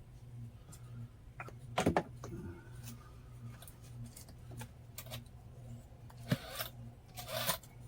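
Small clicks, knocks and a brief scrape of hard plastic and metal RC car parts being handled and fitted together, over a steady low hum; the sharpest knocks come about two seconds in and again past six seconds.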